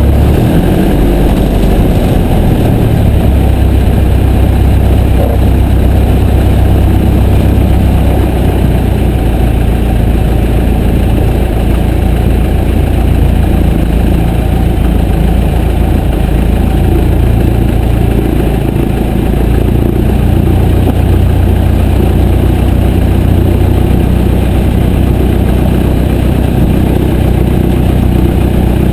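Piper J3 Cub's small four-cylinder aircraft engine and propeller running steadily and loudly, with no change in speed.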